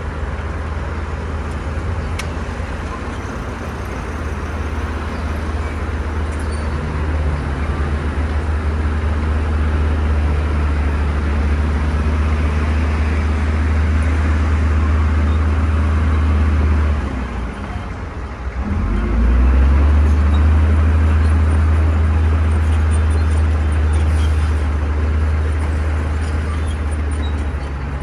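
Bulldozer's diesel engine working under load, a steady deep drone with track and soil noise over it; it eases off briefly about two-thirds of the way through, then comes back stronger.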